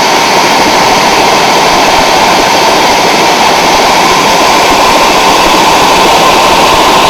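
Helicopter running, a loud steady rush of turbine and rotor noise with a steady whine.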